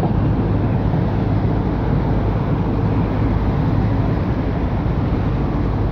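Heritage passenger train running along the track, a steady rumble of the carriages in motion heard from an open carriage window, with wind on the microphone.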